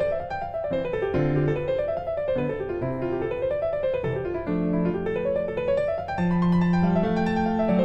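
Background piano music: flowing runs of notes that rise and fall about once a second over low sustained bass notes.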